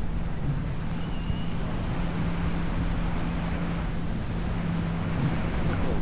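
Tow boat's engine running steadily with a constant hum, under wind rushing over the microphone.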